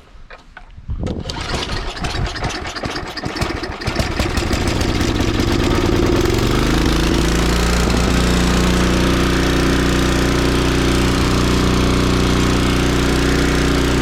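Craftsman 5 hp snowblower engine starting: about a second in it fires and runs unevenly, then picks up speed and settles into a steady run from about six seconds in.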